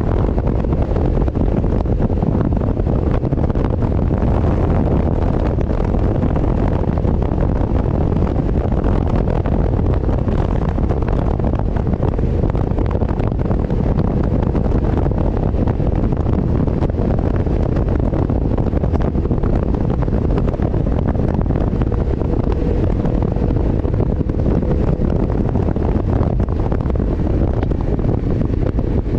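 Steady, heavy wind noise on the microphone at road speed, over a vehicle's running engine.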